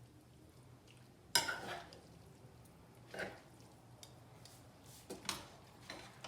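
Two spoons tossing and mixing noodles, knocking against the dish in about four short clatters, the loudest about a second and a half in.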